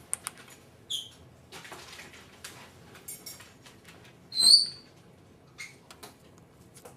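Senegal parrot giving a short high chirp about a second in and a louder, high whistled squeak about four and a half seconds in, with soft clicks and rustling between.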